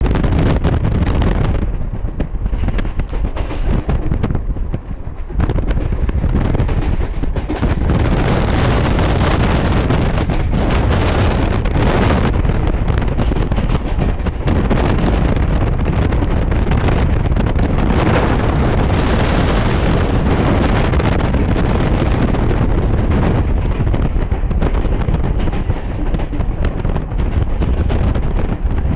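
DC EMU electric train running at about 70 km/h over a bridge: a loud, continuous rumble and rush of air with heavy wind buffeting on the microphone. It is rougher and a little quieter for the first few seconds, then holds steady.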